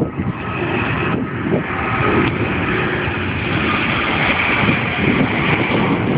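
Airbus A380's four turbofan engines running: a steady jet roar with a thin whine above it.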